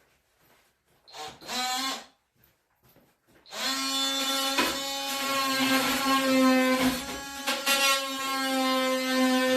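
A power tool is briefly triggered, then runs at a steady buzzing pitch, with a couple of sharp knocks partway through.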